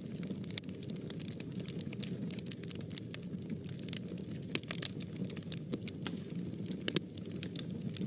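Wood fire burning in a fireplace: a steady low rush of flames with irregular crackles and pops, one sharper pop about seven seconds in.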